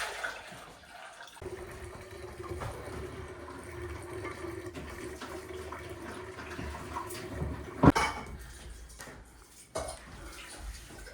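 Water running, with a steady hum and low rumble that start suddenly about a second and a half in, and one sharp knock about eight seconds in.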